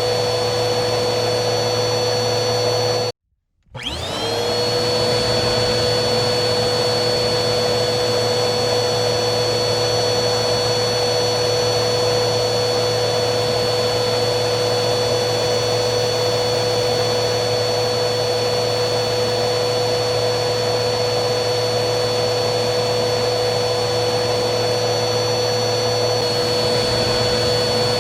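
Vacuum cleaner motor running with a steady whine. About three seconds in the sound cuts out abruptly for half a second, then the motor starts again, its whine rising as it spins up to speed before it runs steadily once more.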